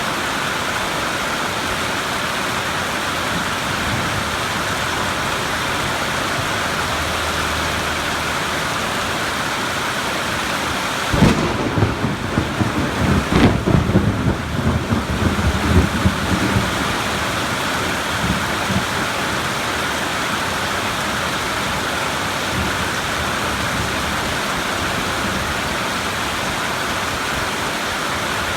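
Steady rain falling through a thunderstorm, with a thunderclap partway through: a sudden sharp crack followed by rolling rumbles that die away over about six seconds.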